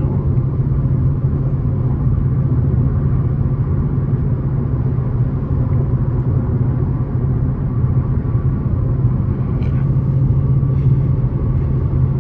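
Dodge Challenger R/T's V8 engine and road noise droning steadily from inside the cabin while cruising at an even speed.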